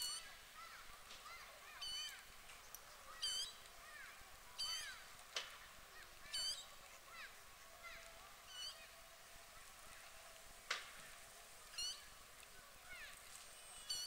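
Faint bird calls: short, high-pitched chirps repeated every second or so, some falling in pitch, with two sharp clicks about five and eleven seconds in.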